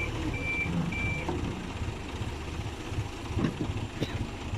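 Reversing alarm on heavy machinery beeping three times at an even pace, then stopping about a second in, over a diesel engine running. Two sharp knocks come near the end.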